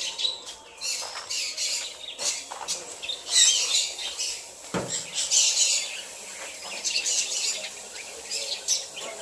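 Small birds chirping and twittering steadily in the background, with a single soft knock about five seconds in.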